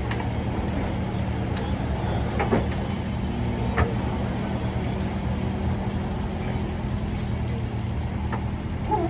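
A vehicle engine running steadily at idle, a constant low hum, with scattered light clicks over it.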